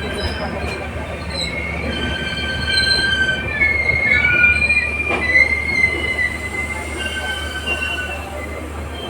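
Steel wheels of LHB passenger coaches squealing against the rails as the train runs, over a steady low rolling rumble. Several high squealing tones waver and slide in pitch, loudest about four to six seconds in, then fade somewhat.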